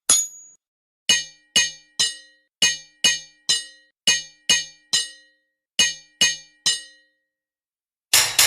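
Hammer striking an anvil: sharp ringing metallic blows in groups of three, a little under half a second apart, with a louder, noisier clang near the end.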